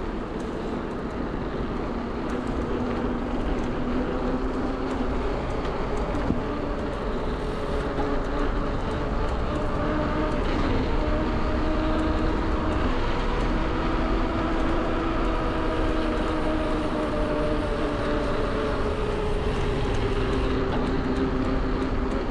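Bafang BBSHD mid-drive e-bike motor whining as the bike is ridden, its pitch drifting slowly up and down with speed, over a steady low rumble of wind on the microphone.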